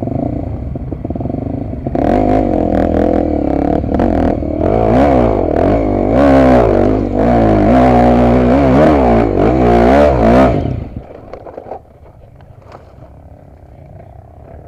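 Dirt bike engine revving hard close by, its pitch swinging up and down again and again as the throttle is worked. The engine sound drops away suddenly about eleven seconds in.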